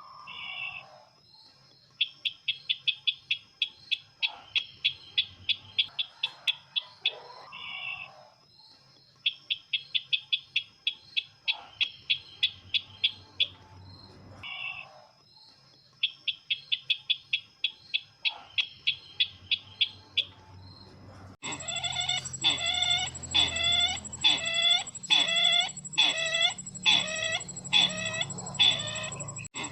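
Calls of the sisintar ladang bird, a lure-call recording: three runs of rapid high chirps, about six a second, each lasting about two seconds. About two-thirds of the way in, the sound cuts abruptly to louder, slower calls, about one and a half a second, over a thin steady high tone.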